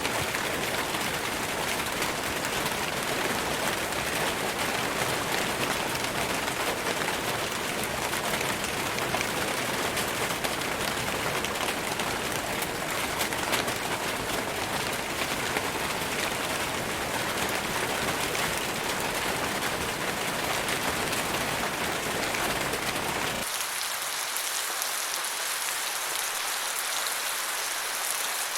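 Steady rain falling on forest foliage, an even hiss of drops. Near the end the sound changes abruptly to a thinner, hissier rain with the low rumble gone.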